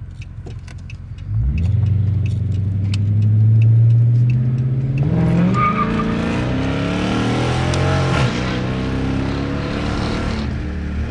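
2013 Dodge Charger's engine through an exhaust with the muffler and resonator deleted, and a K&N drop-in air filter. It comes on loud about a second in and climbs steadily in pitch as the car accelerates. The note then rises and falls several times, with a sharp dip and pick-up near the end.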